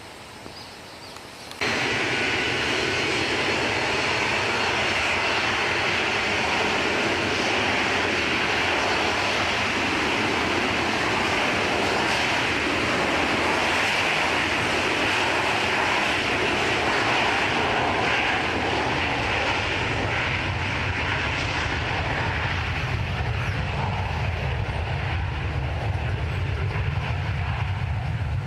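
McDonnell Douglas MD-83's Pratt & Whitney JT8D turbofans at take-off power: a loud, steady jet roar with a hissing upper edge, cutting in abruptly about two seconds in. Toward the end a deep rumble grows stronger.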